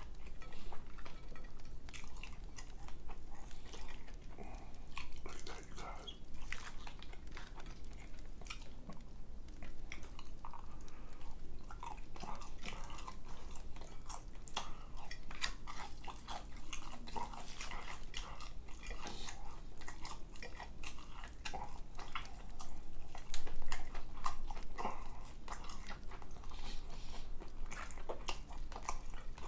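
Close-miked eating: chewing and biting into fried chicken, with many small crunches and crackles of the crust. The loudest bite comes about three quarters of the way through.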